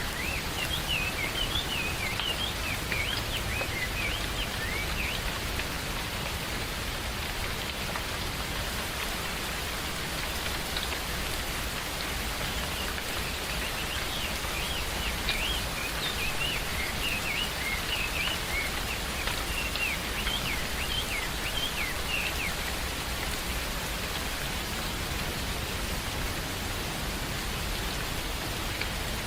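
Steady rain falling, with birds giving quick high chirps over it in the first few seconds and again through the middle.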